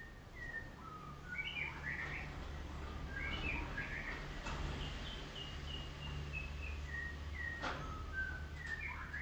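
Golden shama (a colour form of the white-rumped shama) singing a run of short, clear whistled notes that step and slide up and down in pitch, over a steady low hum.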